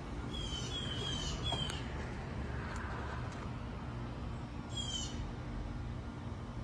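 A bird calling: a quick run of four short, high, falling notes, then one more about five seconds in, over a steady low hum.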